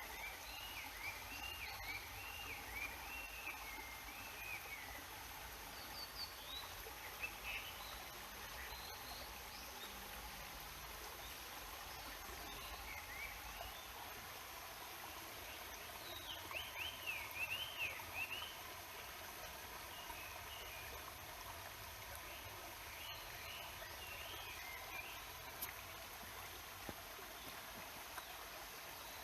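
A mountain stream rushing steadily, with small birds singing short warbling phrases over it, several times, loudest about halfway through.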